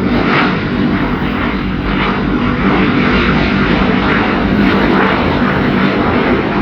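Jet engine noise from a Boeing 737-800 airliner landing, a steady loud rush with a low hum under it, from its twin CFM56-7B turbofans.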